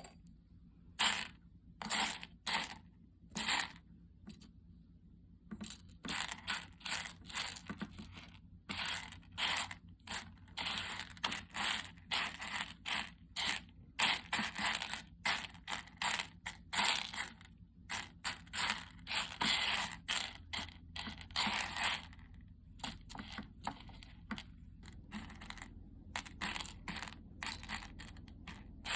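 Coffee beans rattling and scraping in a hand-held mesh roasting net, shaken in short strokes. The strokes come in uneven runs of about two to three a second, with a pause a few seconds in and sparser strokes near the end.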